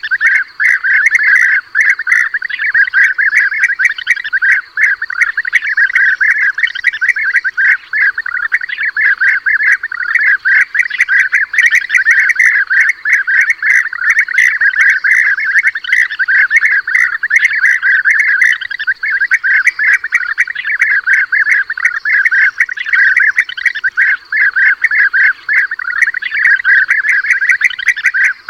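A flock of European bee-eaters calling: many loud, rolling, trilled calls overlapping in a continuous chorus, played as a lure recording for hunting bee-eaters.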